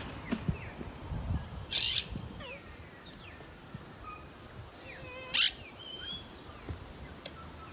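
Two short, harsh bird screeches, about two seconds and five and a half seconds in, over scattered faint chirps and whistled calls of other birds.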